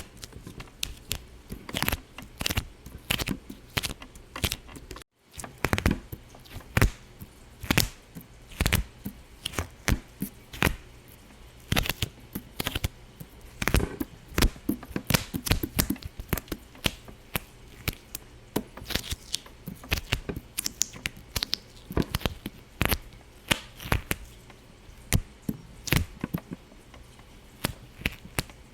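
Rapid, irregular sharp pops and clicks, several a second, with a brief break about five seconds in.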